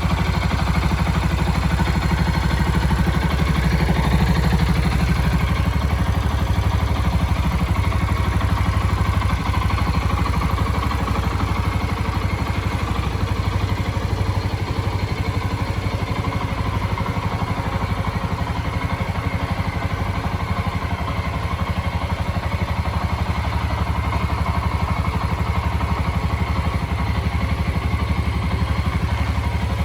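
2008 Suzuki ST250E FI's air-cooled single-cylinder engine idling steadily, with an even low exhaust pulse.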